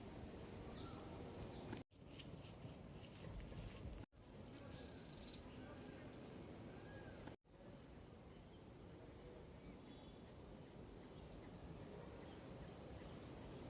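Insects shrilling steadily with a continuous high-pitched buzz over outdoor ambience, with a few short bird chirps. The sound breaks off for a split second three times where clips are joined, and is loudest in the first part.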